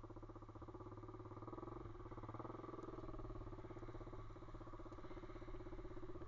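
A vehicle engine running steadily, with an even, rapid pulsing beat.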